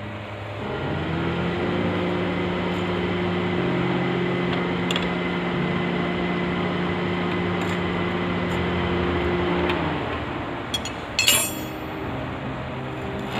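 Scooter engine running: its pitch rises about a second in, holds steady, then dies away near ten seconds. A brief clatter follows shortly after.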